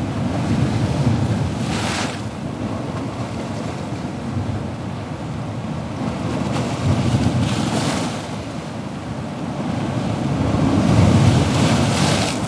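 Ocean waves surging and washing, a steady rushing wash that swells three times, each surge ending in a brief hiss of breaking surf.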